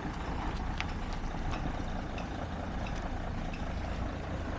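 Heavy truck's diesel engine running steadily at low revs, with an even hiss over it and a few faint clicks.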